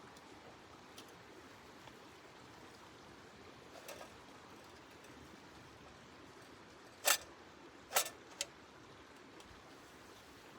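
A few sharp knocks over a steady low hiss: two louder ones about a second apart past the middle, a smaller one just after, and fainter clicks earlier.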